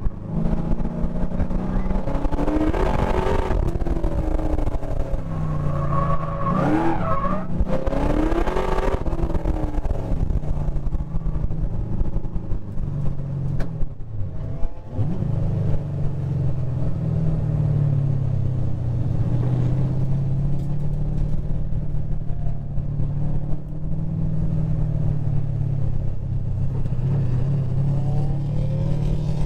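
LS7 V8 engine of an autocross car heard onboard under hard driving, its note rising and falling several times in the first ten seconds, dipping briefly about halfway through, then pulling at a steadier pitch that climbs again near the end.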